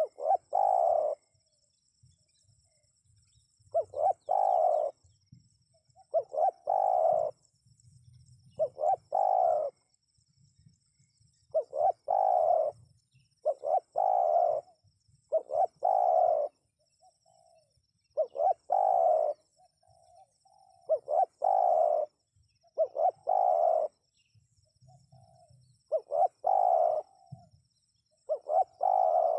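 Spotted dove cooing: a phrase of a few short notes ending in a longer coo, repeated about every two seconds, a call used to lure wild doves. Crickets chirr faintly and steadily underneath.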